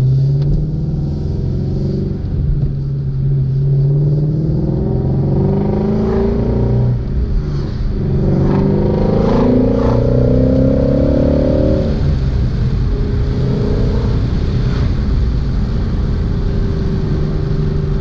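2016 Ford Shelby GT350's flat-plane-crank V8 under a hard pull. Its pitch climbs steadily from about a third of the way in, drops once for a gear change, climbs again, then falls back to a steady lower drone as the car cruises.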